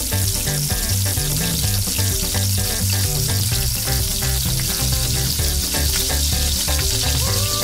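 Hot oil sizzling steadily as battered fritters deep-fry in a pan, over a background music track.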